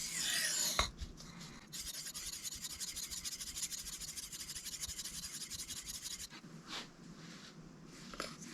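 A knife blade scraped back and forth on a sharpening stone, a run of quick, even grinding strokes for about four and a half seconds that stops about six seconds in, with a short swish at the start and a couple of light taps near the end. The edge is being reprofiled to a new angle.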